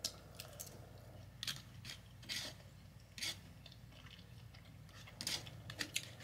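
Close-up chewing of a bite of kielbasa and sauerkraut: faint wet mouth clicks and smacks at irregular moments, with a white plastic fork picking at a paper plate in the second half.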